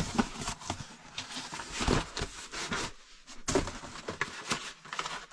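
Irregular rustling, crackling and small knocks of the exhaust fan's parts and packaging being handled by hand.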